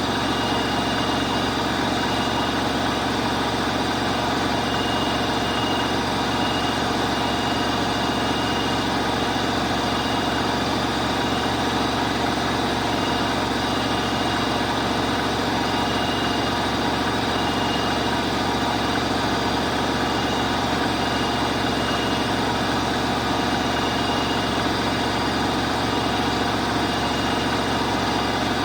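Bosch Aqua Star washing machine running with a steady, unbroken hum and a faint high tone that comes and goes.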